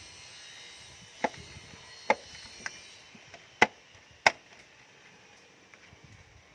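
Five sharp knocks and taps over about three seconds, the last two loudest, as the engine cover is set back in place on the engine.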